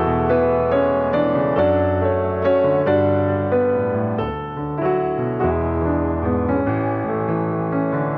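Soft background piano music: gentle notes over sustained bass chords, changing every second or so.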